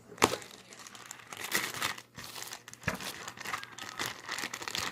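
Irregular crinkling and crackling of material being handled, with a sharp snap about a quarter second in.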